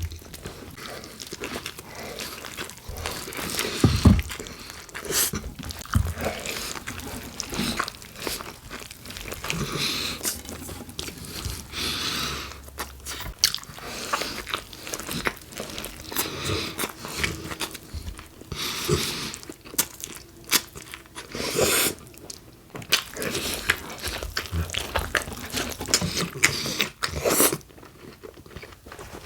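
Close-miked biting and chewing of a BLT sandwich of bacon, iceberg lettuce and tomato on Italian bread, with repeated crunchy bites throughout.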